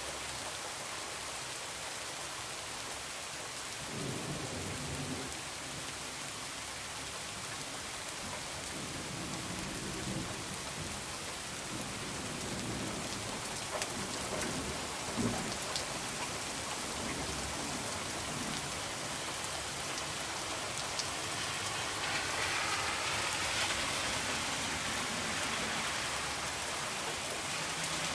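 Heavy rain falling steadily, with low thunder rumbling in from about four seconds in and rolling on through the middle.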